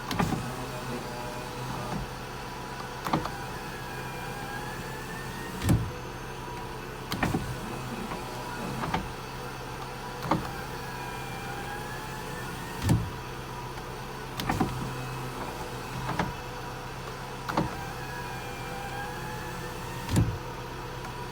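Power window on an SK82-series van (Mazda Bongo / Nissan Vanette / Mitsubishi Delica) being run up and down repeatedly: the window regulator's electric motor whines, rising and falling in pitch with each travel, with a sharp clunk each time the glass stops.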